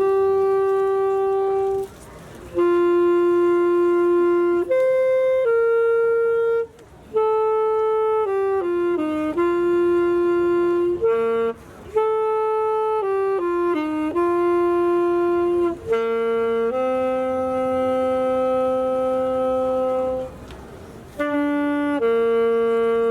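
A woodwind instrument plays a slow solo melody of held notes, one note at a time, with short breaks between phrases.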